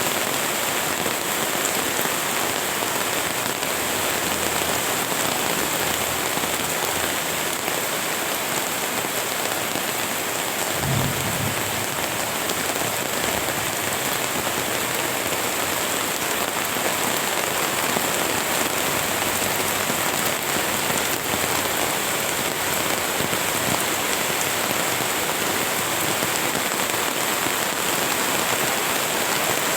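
Steady rain falling and pattering on surfaces, a dense even hiss throughout, with one brief low thump about eleven seconds in.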